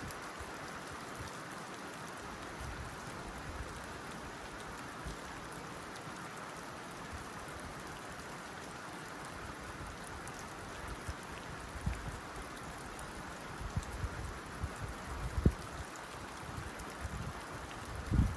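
Steady rain on a tin roof, a dense even patter. From about twelve seconds in, scattered low thuds break through, the loudest about fifteen seconds in and another near the end.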